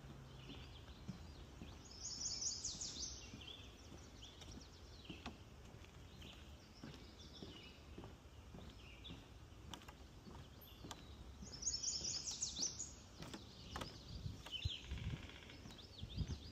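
A songbird sings the same short, rapid, high-pitched phrase twice, about ten seconds apart, while other birds chirp softly. Footsteps thud on the wooden boardwalk, most plainly near the end.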